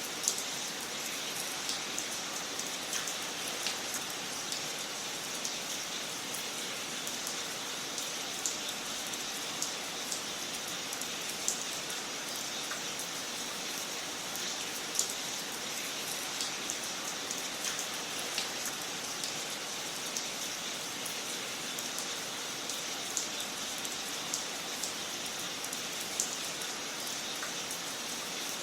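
Wood fire crackling in a fireplace: a steady soft hiss with scattered sharp pops and snaps every second or so.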